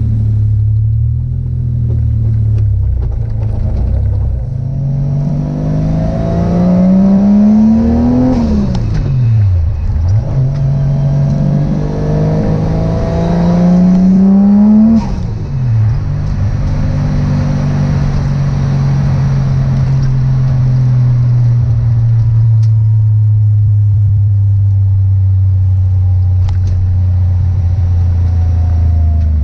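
Turbocharged Toyota 1JZ VVTi inline-six in a Nissan 240SX, heard on a drive: the revs climb twice and fall sharply each time the throttle is lifted, then it cruises steadily with the revs slowly easing off.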